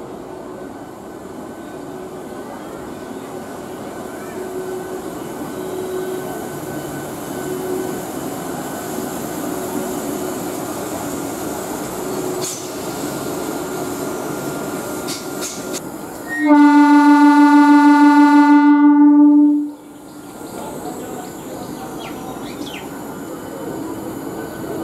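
ICF MEDHA electric multiple unit local train pulling out and running past along the platform, its running noise building steadily. About two-thirds of the way in, a train horn sounds one very loud, steady blast of about three seconds that cuts off sharply.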